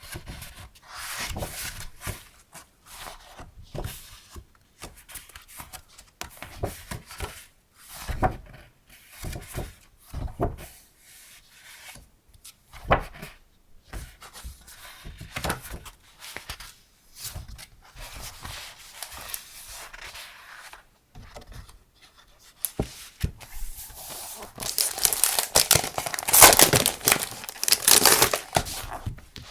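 Paper and packaging being handled: irregular rustling and crinkling with soft taps, turning into a longer, louder run of rustling in the last few seconds.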